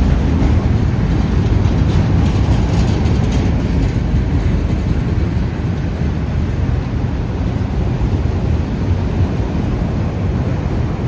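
Freight train cars rolling past: a loud, steady low rumble of wheels on the rails.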